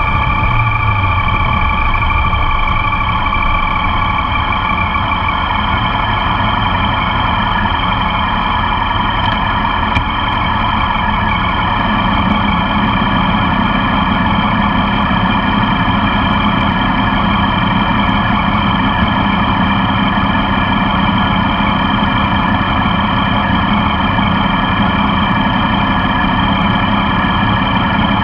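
Motorcycle engine running steadily, heard close up from a camera mounted on the passenger foot peg, with a steady set of tones and no change in speed.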